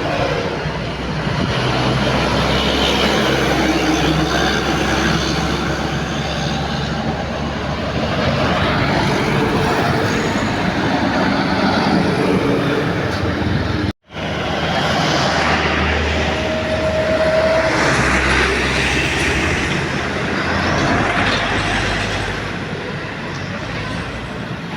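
Heavy diesel truck engines running hard, loud and steady, with the clatter of heavy recovery work; a brief squeal sounds a couple of seconds after an abrupt cut about halfway through.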